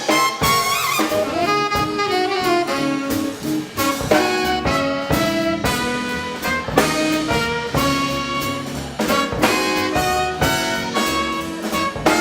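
Live swing band playing an instrumental passage, with saxophone and brass horns carrying the tune over a drum kit.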